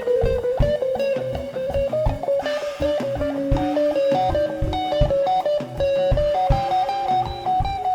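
Live rock band playing an instrumental passage: an electric guitar lead holds long notes that climb slowly in pitch, over bass and steady drums.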